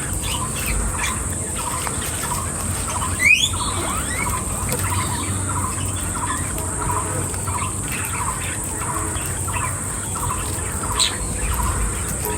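Small animal calls: a steady run of short, high chirps or squeaks, about two a second, with a quick rising squeal about three seconds in and a sharp high call near the end, over a constant high hiss.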